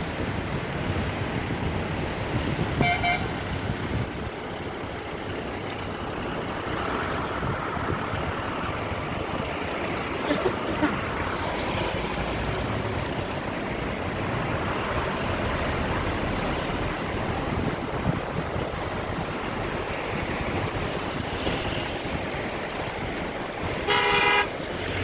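Vehicle horn honking: a short toot about three seconds in and a louder, longer blast near the end, over steady road-vehicle noise.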